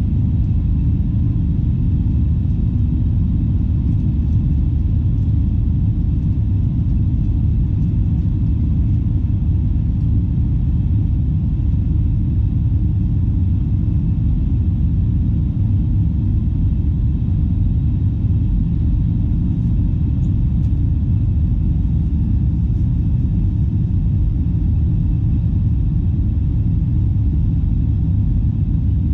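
Steady low rumble of an Airbus A321's jet engines and airflow heard inside the passenger cabin, with a faint steady hum over it.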